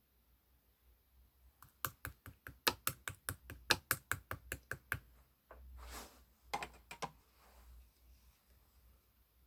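Purple marbled slime being pressed and kneaded by hand, giving a quick run of sharp clicky pops, about five a second for some three seconds. A short squelchy rush follows, then a few more pops.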